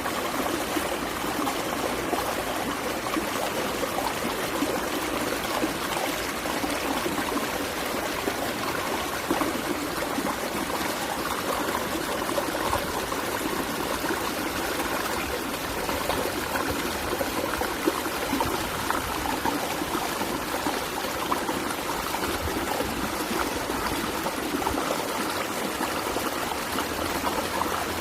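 Water flowing in a stream, a steady, unbroken rush with a continuous trickling splash.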